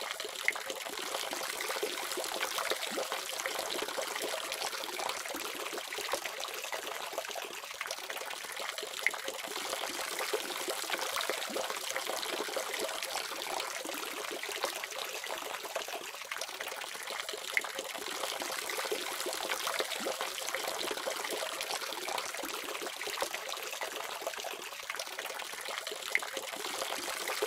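Water running steadily from a faucet, a constant splashing hiss with small irregular droplet spikes.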